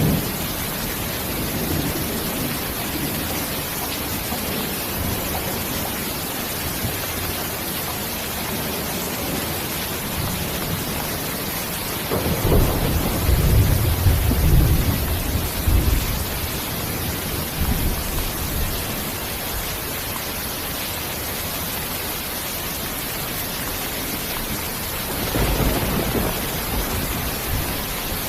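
Steady rain hiss with low rolls of thunder: a short one at the start, a longer, louder roll about twelve seconds in lasting some four seconds, and another near the end.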